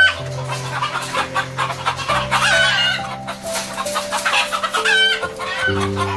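Chickens clucking in a quick run of short calls over sustained background music.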